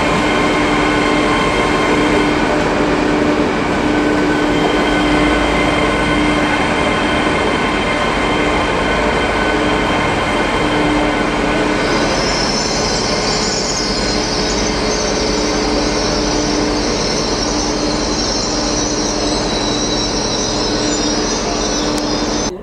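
Passenger train passing close by, with a dense running noise and a steady whine of several held tones. About halfway through, a high hiss joins in.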